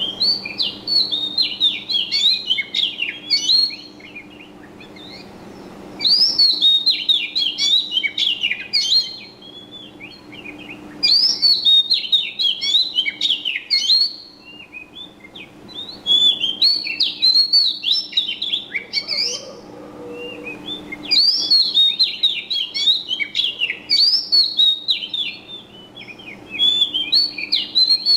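A songbird singing in repeated bouts of rapid, twittering warbles. Each bout lasts about three seconds and comes back roughly every five seconds, six bouts in all.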